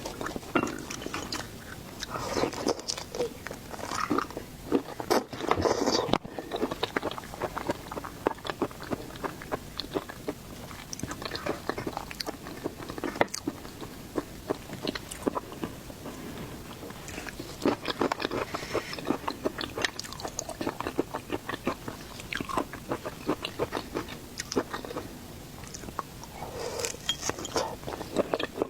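Close-miked eating of seafood: biting and chewing with crunching and a dense run of small clicks, louder in several stretches.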